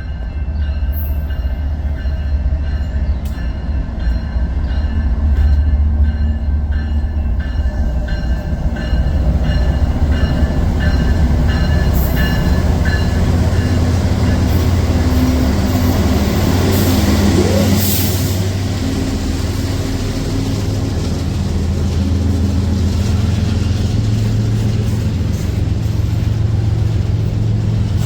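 Train passing close by: a loud, steady low rumble of the locomotive and rolling rail cars. For about the first half, high ringing tones and evenly spaced clicks sound over it.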